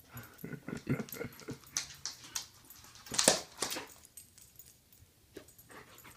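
A dog making a series of short sounds while going after a laser pointer dot, with the loudest one about three seconds in.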